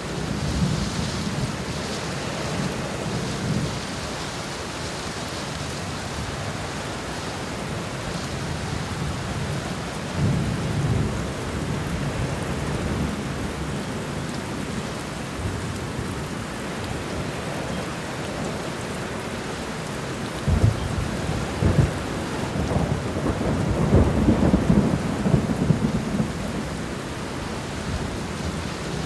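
Steady rain falling during a thunderstorm, with thunder rumbling several times. The loudest thunder comes about two-thirds of the way in: two sharp cracks, then a rolling rumble that lasts several seconds.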